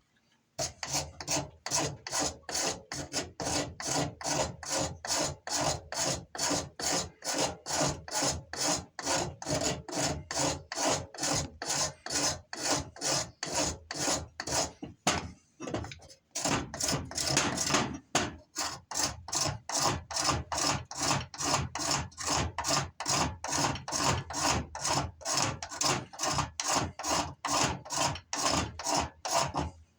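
A blade scraping fine curls off a stick of resinous fatwood, with even strokes about twice a second and a short pause about halfway.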